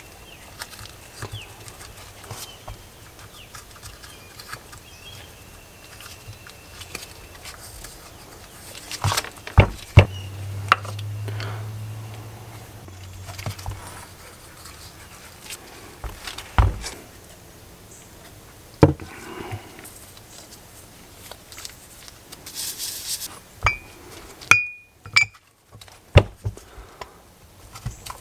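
Scattered clicks and knocks of brake caliper parts being handled and fitted during a rebuild, with a brief low hum about ten seconds in.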